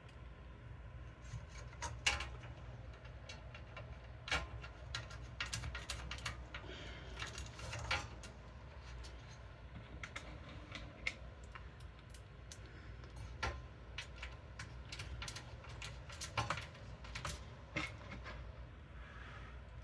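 Irregular small clicks, taps and knocks of screws, a screwdriver and parts being handled against a metal computer case, over a low steady hum.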